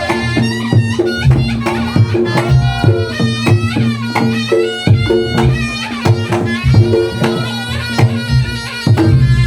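Reog Ponorogo gamelan music: a reed shawm (slompret) plays a melody that bends in pitch, over drum strikes and a repeating pattern of pitched gong-chime notes.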